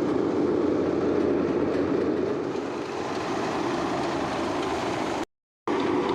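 Tractor-driven thresher running steadily under an Eicher 485 tractor, a dense, continuous mechanical rumble and clatter as mustard is threshed. Near the end the sound cuts out completely for about half a second, then resumes unchanged.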